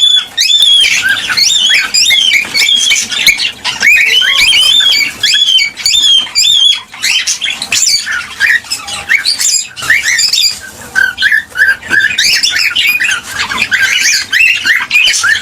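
Cockatiels calling in a continuous, rapid chatter of rising and falling chirps and whistles, often overlapping.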